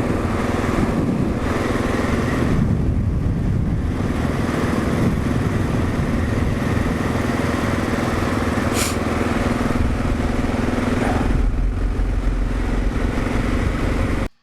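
2022 Kawasaki KLR650's single-cylinder engine running at a steady cruise, with wind and road noise rushing over the microphone. The sound cuts off suddenly at the very end.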